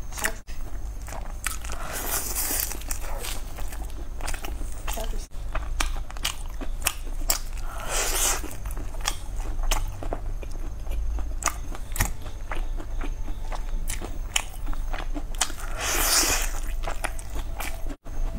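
Close-up chewing and crunching of crispy glazed Korean fried chicken, with many small crackles throughout and three louder crunches about six seconds apart.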